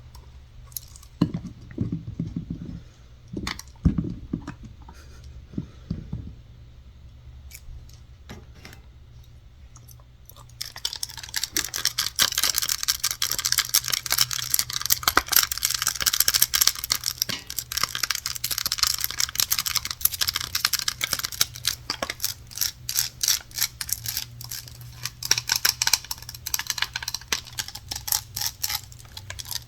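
Close-up ASMR tapping and scratching on objects: scattered light taps and a few soft thumps, then from about ten seconds in a fast, continuous run of scratching and tapping.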